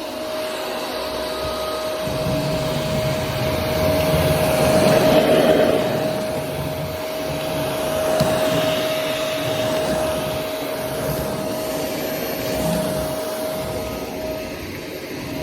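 Shark Navigator NV350 upright vacuum cleaner running: a steady motor whine over rushing airflow, swelling louder and easing off a couple of times.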